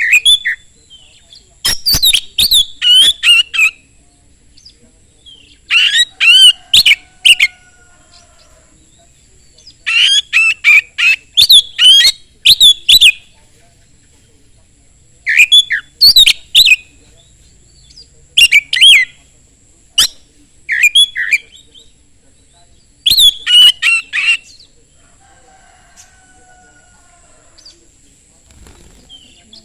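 Oriental magpie-robin singing in loud bursts of rapid, sharp whistled and scratchy notes, each phrase lasting one to three seconds with short pauses between, about seven phrases in all.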